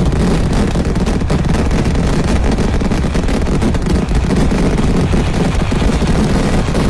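Kerala temple-festival fireworks (vedikkettu) in a dense barrage: a continuous rolling roar of rapid explosions, too close together to pick out one by one.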